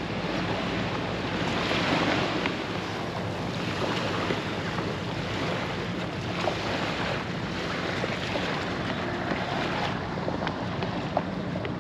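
A boat under way: wind buffeting the microphone and water rushing past, in swells, over the steady low hum of the boat's engine.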